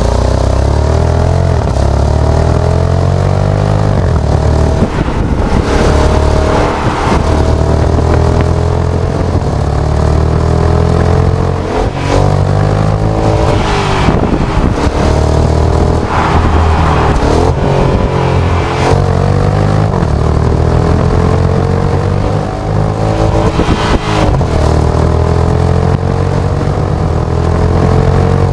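Jeep Grand Cherokee SRT's 6.4-litre V8 engine and exhaust pulling hard. The pitch climbs through each gear and drops sharply at the shifts, about half a dozen times.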